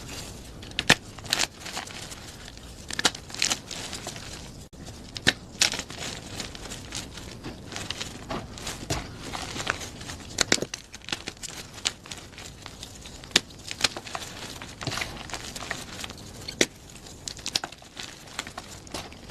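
Plain gym chalk being crushed: an irregular run of crisp crunches and cracks, a few sharper ones every second or so, over a soft, continuous crumbling.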